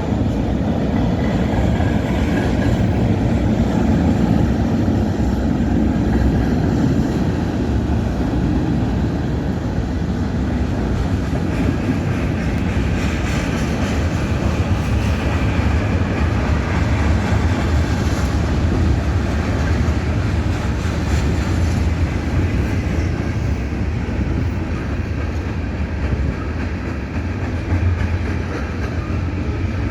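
Freight train cars rolling past on the rails, a steady continuous rumble.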